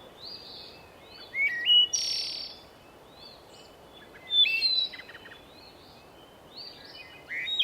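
Small birds chirping and trilling in short scattered calls over a faint background hiss, with louder bursts of chirps about one and a half, four and a half and seven and a half seconds in.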